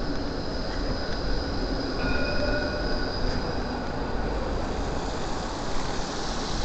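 Steel wheels of a rail vehicle squealing on the track over a steady rumble, with several thin high squealing tones held for seconds at a time. More tones join about two seconds in.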